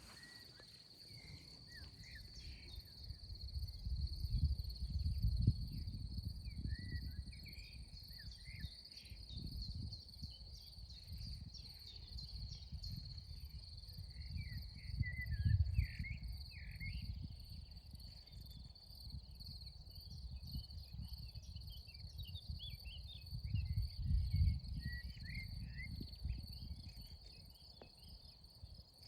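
Steady high-pitched insect trill, like crickets or grasshoppers, with scattered short chirps over it and a low rumble that swells and fades several times.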